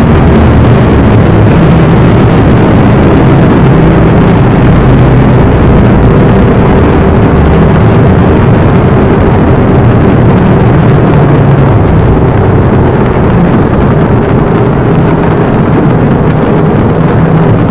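Very loud, harsh and steady noise pinned at full level, with a low droning hum under it and no breaks.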